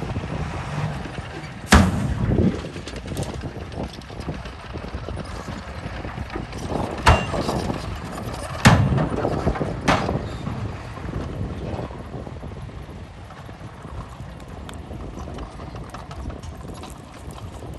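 Heavy earthmoving machinery working: a low, steady rumble broken by a few sharp clanks, the loudest about two seconds in and about halfway through.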